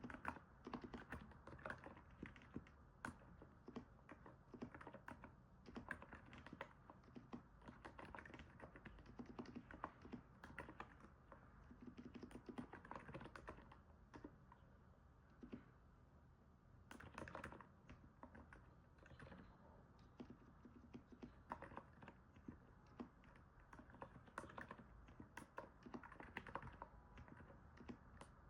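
Typing on a NiZ 68 Pro capacitive keyboard: a quiet, continuous run of soft keystrokes with a short lull about halfway through, a sound likened to stepping on snow.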